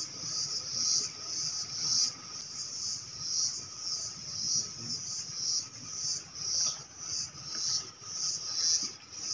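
Insects calling: a high, shrill chorus that swells and fades in a steady rhythm, about three pulses every two seconds.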